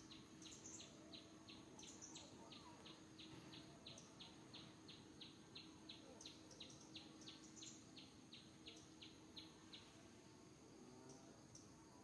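Faint, short high chirps repeated evenly about three times a second, stopping near the end, over a steady high-pitched drone like insects.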